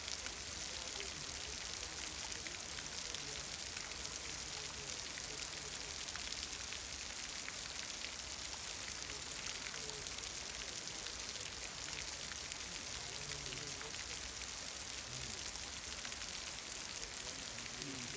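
Heavy rain falling steadily, an even hiss dotted with the sharp ticks of individual drops striking surfaces.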